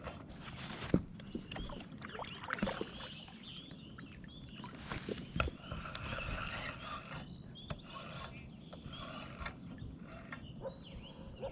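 Small birds chirping with many short rising and falling notes, over occasional sharp clicks and knocks from the kayak and fishing gear.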